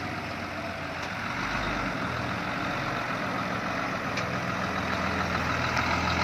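Diesel engine of a Hino F18 ten-wheel truck running steadily under a heavy sugarcane load as the truck pulls along, growing a little louder in the last couple of seconds.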